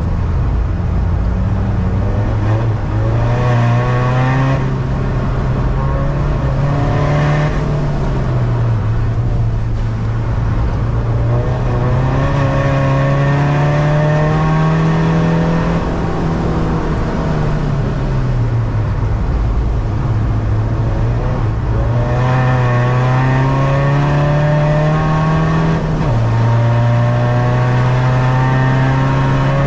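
Tuned 250 bhp diesel SEAT Ibiza heard from inside the cabin at track pace: the engine revs climb under acceleration and fall away off the throttle several times, with one sudden drop in pitch near the end as a gear is changed. Steady road noise runs underneath.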